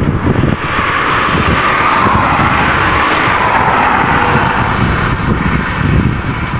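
A car passing by, its tyre hiss swelling and then fading over about five seconds, over steady wind buffeting the microphone.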